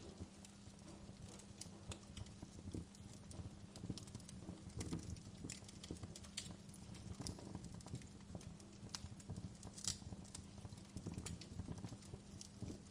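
Wood fire crackling: irregular pops and snaps over a steady low rumble, with a sharper snap about ten seconds in.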